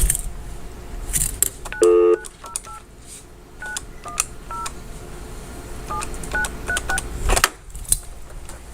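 Touch-tone telephone keypad being dialled: about ten short two-note key beeps as a phone number is entered. A brief louder tone comes just before the beeps, with scattered clicks of handling the phone.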